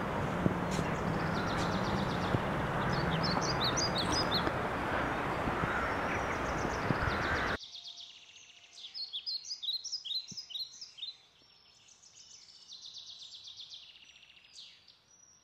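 Small songbirds chirping and trilling over a steady rushing noise. The noise cuts off abruptly about eight seconds in, leaving the birds' chirps alone and fainter.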